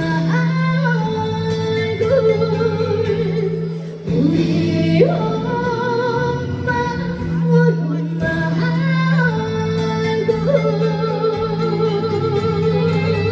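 Trot song performed live: a woman's voice holding long, wavering notes over a backing track with a steady bass line.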